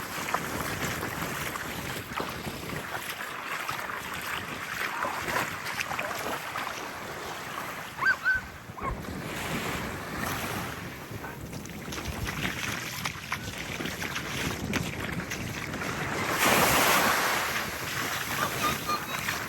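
Small waves lapping and washing on the beach, with breeze buffeting the microphone. A wave washes in louder about three seconds before the end, and there is a brief high chirp about eight seconds in.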